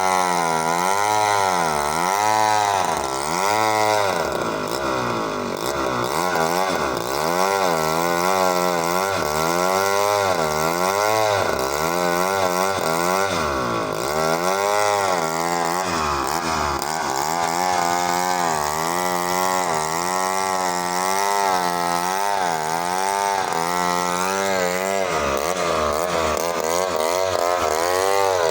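Two-stroke chainsaw ripping a meranti log lengthwise. The engine runs steadily for the whole stretch, its pitch rising and falling over and over as the chain bites and the load changes.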